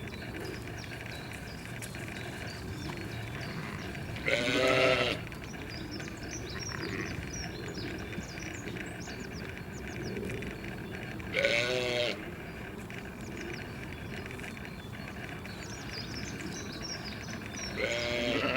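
A bleating farm animal, sheep or goat, calls three times, each bleat under a second long and about seven seconds apart, over a steady background with faint high chirps.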